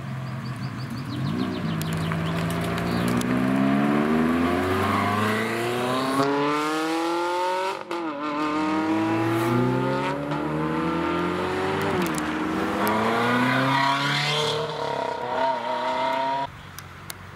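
Sports car engine accelerating hard: the engine note climbs in pitch, drops sharply at an upshift about eight seconds in, climbs again through another shift about twelve seconds in, and cuts off abruptly near the end.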